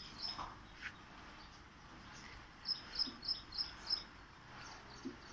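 A small bird calling: a quick run of about six short, high chirps a little past halfway, over a faint outdoor hiss.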